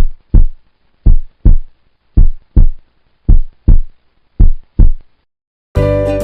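Heartbeat sound effect: five pairs of deep, loud thumps in a lub-dub rhythm, a pair about every second. Music comes in near the end.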